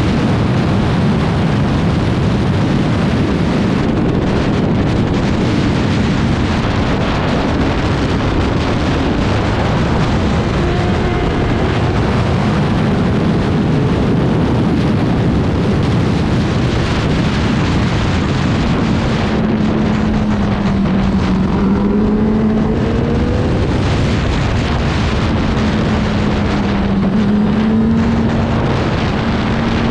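Racing motorcycle engine running hard at speed, its pitch rising and falling as the revs change, under heavy wind rush on the onboard microphone.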